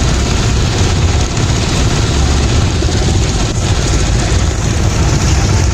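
Motorboat engine running steadily at a constant load, a low rumble with a continuous hiss above it.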